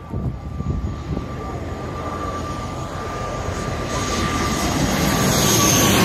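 Jet airliner approaching, its engine noise growing steadily louder, with a steady whine and a higher whine coming in near the end, over low wind rumble on the microphone.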